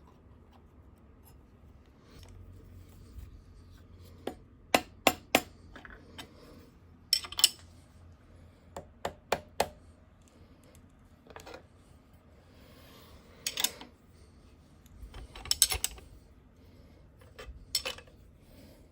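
Steel clamps, blocks and tools being handled on a milling machine table: sharp metal clinks and clanks in short clusters, with a few scraping sounds, as the fixturing is set and tightened.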